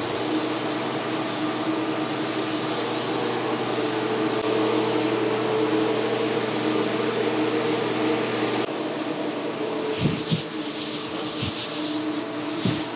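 Compressed-air blowgun hissing as dust is blown off at high pressure, over the steady hum of a running motor. About nine seconds in the hum drops away, and the blowing comes in a few short blasts.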